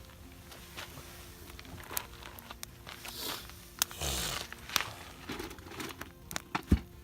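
Scattered handling noises: sharp clicks and short crinkling, rustling scrapes of gear being handled, with two louder knocks near the end.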